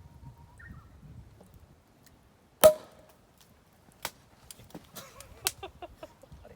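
Champagne cork popping out of the bottle with one loud, sharp pop, followed by a few fainter clicks and knocks.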